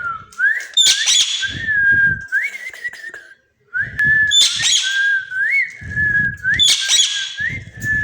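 Pet parrot whistling a held note that swoops upward about once a second, broken by three harsh screeches, about a second, four and a half seconds and seven seconds in, with low muffled bursts underneath and a short pause in the middle.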